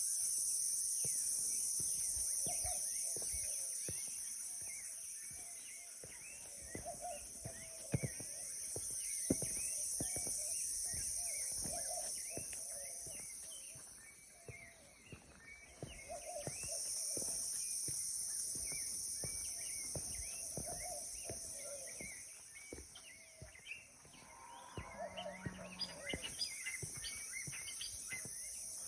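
Outdoor nature ambience: a steady high-pitched drone that swells and fades slowly, with many birds chirping and a lower call repeating every second or two.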